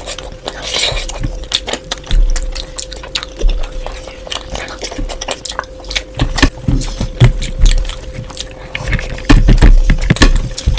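Close-miked chewing and wet mouth sounds of a person eating curry: repeated smacks and clicks, with heavier low thuds in the second half.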